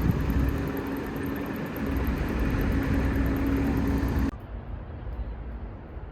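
Vehicle running: a steady low rumble with a constant hum, cutting off suddenly about four seconds in to a much quieter background.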